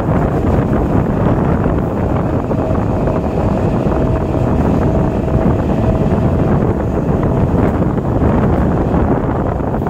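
BEML stainless-steel EMU local train running, heard from on board: a steady rumble of wheels on the track, with wind buffeting the microphone. A faint, steady whine sits above the noise for a few seconds in the middle.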